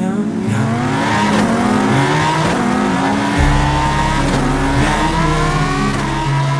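Motor vehicle engine accelerating, its pitch climbing steadily over several seconds, with a deeper rumble joining about halfway through.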